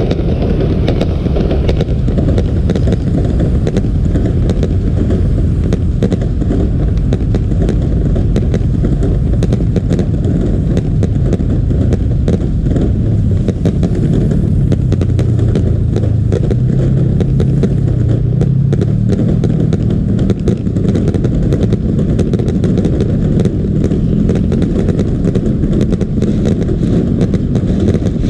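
Fireworks display: a dense, unbroken run of crackles over a steady low rumble, with a low drone that rises in pitch about halfway through.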